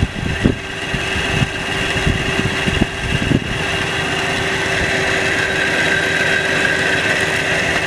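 Suzuki Jimny 4x4's engine idling steadily, with a few brief sounds in the first three seconds.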